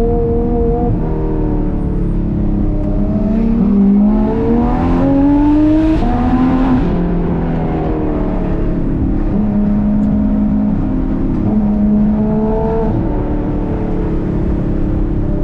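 Porsche 991.2 GT3 RS's naturally aspirated flat-six, fitted with Dundon street headers and Crack Pipe exhaust, pulling on the road. The revs climb for a few seconds around the middle, drop back, then hold fairly steady with small shifts.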